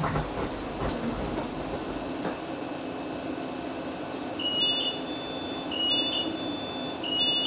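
Cabin of a Class 458 electric multiple unit coming to a stand: the running rumble dies away in the first couple of seconds, leaving a steady hum. From about halfway, a high electronic two-tone beep sounds three times about 1.3 s apart, the train's door warning beeps as it arrives at the platform.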